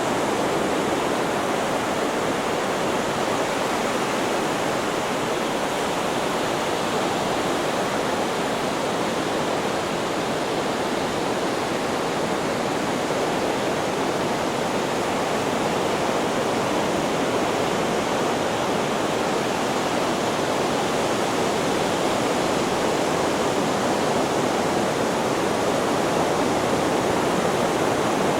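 Steady, even rushing hiss of a white-noise sleep track, unchanging in level, with no separate wave breaks standing out.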